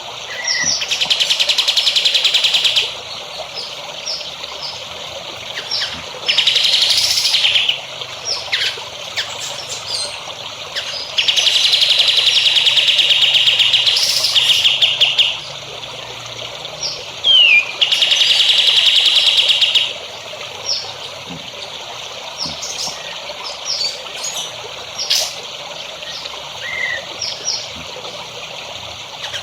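A songbird singing long, rapid trills of about two to four seconds each, four times, with short chirps between, over the steady trickle of running water.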